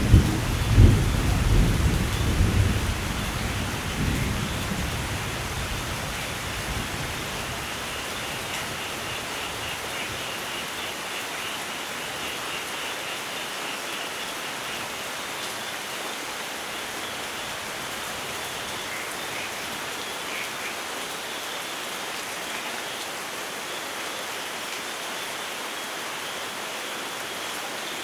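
Heavy rainfall in a thunderstorm. A roll of thunder rumbles loudly at the start, with two sharp cracks in the first second, and dies away over about five seconds, leaving steady rain hiss.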